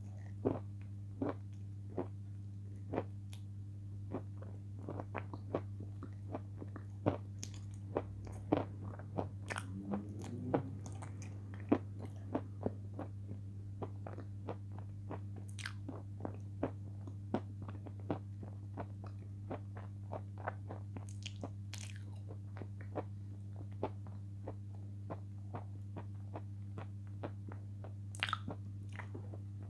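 Chewing a mouthful of edible chalk: many short, sharp crunches, about one or two a second, over a steady low hum.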